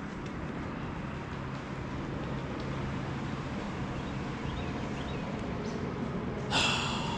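Steady outdoor background noise with a low hum, like distant traffic. A short, loud, harsh sound cuts in about six and a half seconds in.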